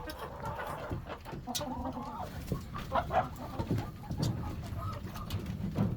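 Poultry calling in short, broken clucking notes, with a few light knocks in between.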